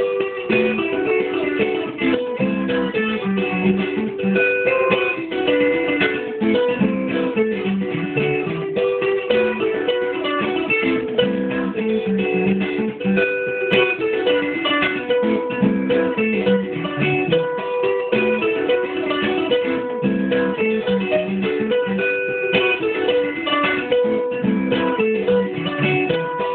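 Guitar played continuously in a run of plucked notes and chords. The recording sounds dull, with the highs cut off.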